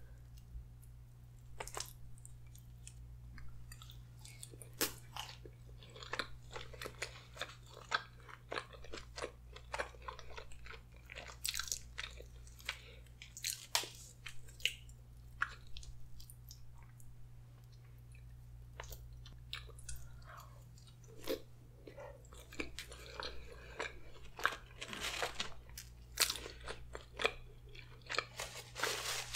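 Close-miked chewing and biting while eating spaghetti with meat sauce and garlic bread: many small irregular wet clicks and crunchy mouth sounds, over a steady low hum.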